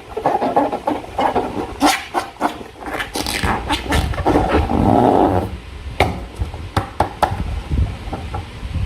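Slime being squished and worked by hand: wet squelching and crackling, with many sharp clicks and snaps at irregular moments.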